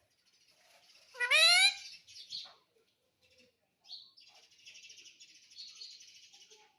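Ringneck parrot giving one loud rising call about a second in, then a short softer call. For the last few seconds it makes a quieter, steady chattering.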